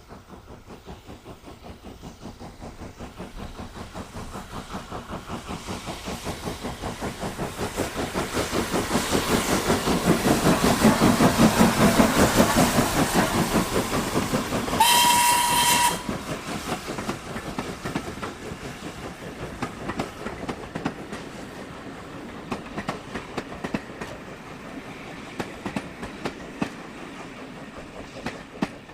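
Steam locomotive passing with a train: its rapid exhaust beats grow louder as it approaches and peak near the middle, then one whistle blast of about a second. The wheels then clatter over the rail joints as it draws away.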